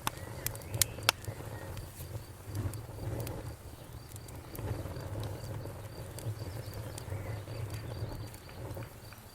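Wood fire crackling in a fireplace, with a few sharp pops in the first second or so and smaller crackles over a low rumble of the flames.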